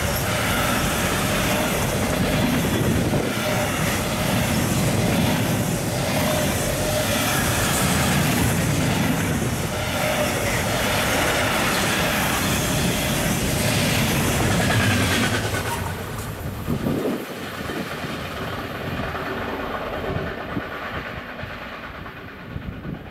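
Container freight train passing close by at speed: a steady, loud rumble and clatter of the wagons' wheels on the track. About two-thirds of the way through the noise drops off sharply to a quieter rolling sound that fades.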